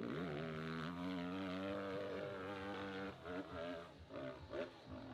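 Motorcycle engine pulling hard at high revs on a steep hill-climb run, held nearly steady, then cutting in and out with short blips of throttle from about three seconds in as the bike loses drive on the slope.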